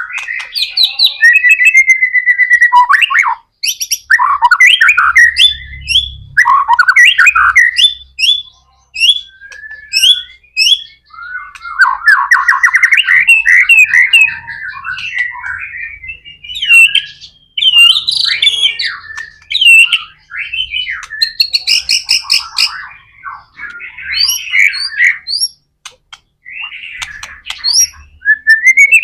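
White-rumped shama singing a long, varied run of loud whistled phrases and rapid trills, in bursts broken by short pauses.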